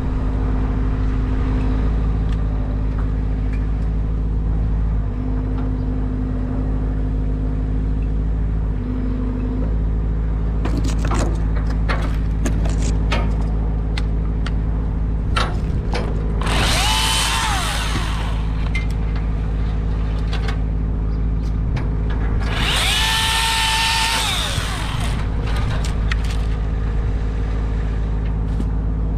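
A Milwaukee battery chainsaw spins up and cuts twice, each run a high electric whine that rises and then drops away: a shorter run about 16 seconds in and a longer one of about two seconds around 23 seconds. Underneath, an engine drones steadily throughout, with scattered sharp knocks and cracks between the cuts.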